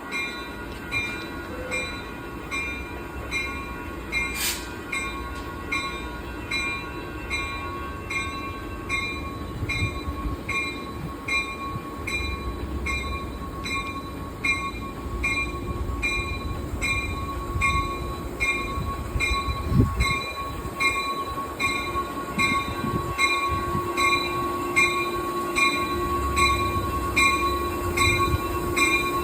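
Amtrak train running past, with a bell ringing evenly about twice a second throughout. Steady high wheel squeal and a low rumble grow louder in the second half.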